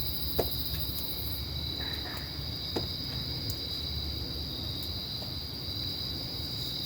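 Crickets trilling steadily in the background, with a few faint clicks about half a second and nearly three seconds in.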